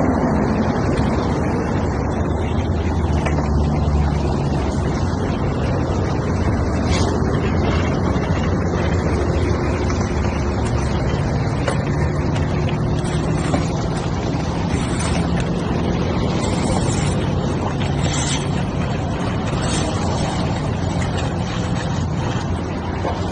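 Steady vehicle engine and road noise, its low hum shifting slightly in pitch.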